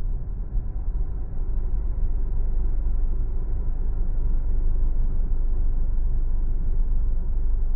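Car driving along a city street: a steady low rumble of road and tyre noise.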